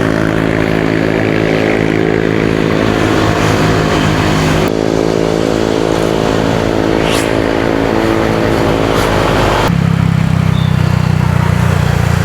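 Motorcycle engine running steadily on the road, with wind and traffic noise. Its note changes abruptly about five seconds in and again near ten seconds, and a short high rising squeal comes about seven seconds in.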